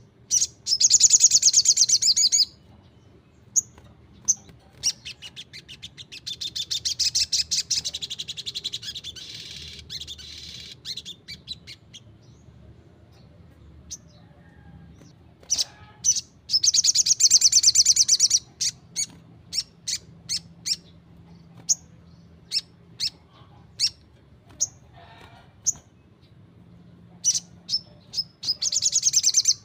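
A sunbird (sogon) singing: loud, very fast, high trills that each last a couple of seconds, given four times, with single sharp chip notes scattered between.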